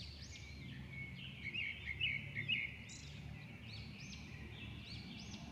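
Small birds chirping over and over in quick rising-and-falling calls, a few louder chirps about two seconds in, over a faint steady low rumble.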